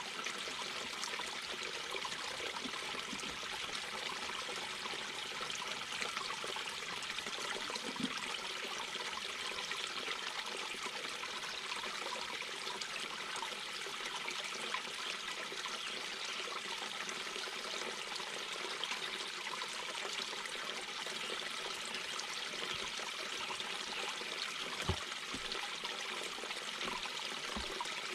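Mountain brook babbling: water running steadily over rocks, with a few soft low plops and gurgles, the clearest about eight seconds in and near the end.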